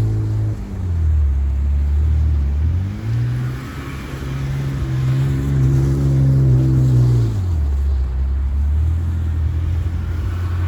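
BMW E60 sedan engine revving up and down in steps: it drops about a second in, climbs around three seconds in and holds high, falls again near the middle, then picks up slightly.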